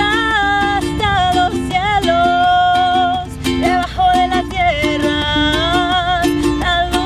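A solo voice singing long, sliding held notes over a strummed ukulele.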